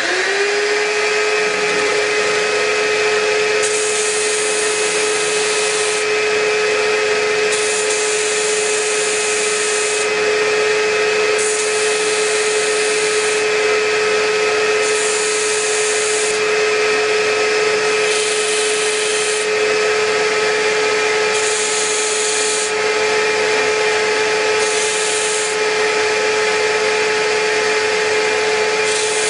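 Electric disc sander starting up and running with a steady whine. It is overlaid every few seconds by stretches of high hissing grit noise as a wooden drawer is pressed against the abrasive disc to sand down proud finger joints.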